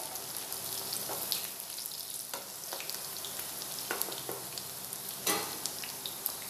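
Okra sizzling steadily as it fries in hot oil in a nonstick kadai, with a few scrapes and knocks from a wooden spatula stirring it.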